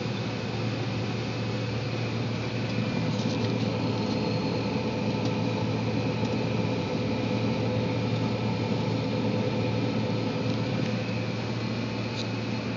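John Deere 9770 STS combine harvester running steadily while harvesting wheat, heard from inside the cab as an even machine hum with a few faint ticks.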